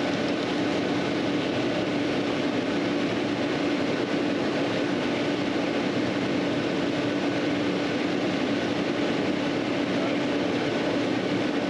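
A steady machine drone with an even hum, unchanging throughout.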